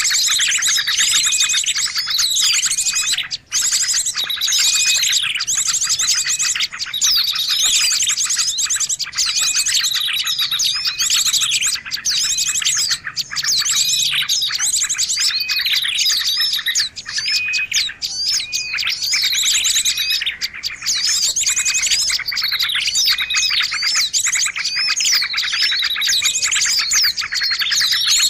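Dense, continuous chorus of many small songbirds chirping and calling over one another, with a fast high trill running through it. It is a mixed small-bird lure (pikat) recording, played to draw wild birds in.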